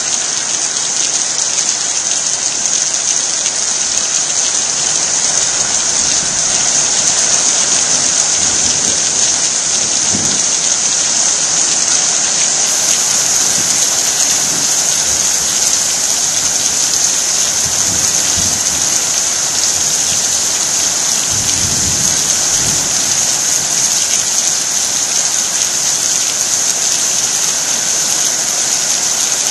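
Heavy rain falling steadily in a dense, even hiss. A few low rumbles of thunder come through around the middle.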